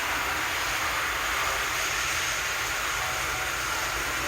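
Steady background room noise: an even hiss with a low rumble and no distinct events.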